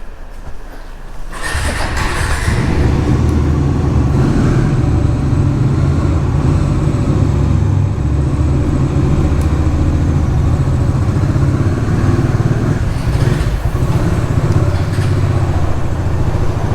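Motorcycle engine running on the move. It gets louder about a second in, then runs steadily.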